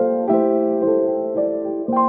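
Background music played on a piano-like keyboard, with a new note or chord struck about every half second and each one ringing on as it fades.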